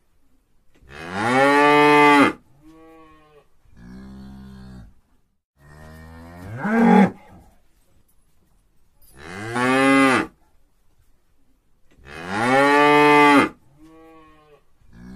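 Cattle mooing repeatedly: four long, loud moos, one of them rising in pitch, with quieter, shorter lows in between.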